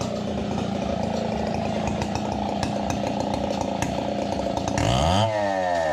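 Chainsaw running steadily, as when cutting coconut timber. Near the end it gets louder and its pitch swings sharply up and down.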